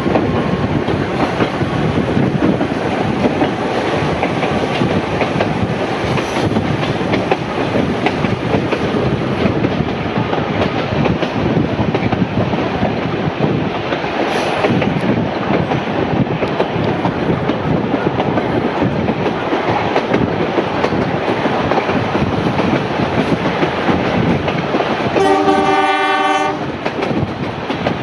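Heritage train carriage running along the track with steady wheel-on-rail noise. Near the end, the 930 class diesel locomotive's horn sounds once for about a second and a half.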